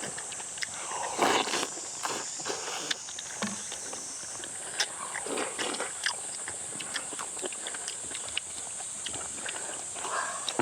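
People eating beef-head soup and boiled meat: scattered clicks and taps of spoons and chopsticks against bowls, with chewing and a few louder slurps of soup about a second in, near the middle and near the end, over a steady high-pitched hiss.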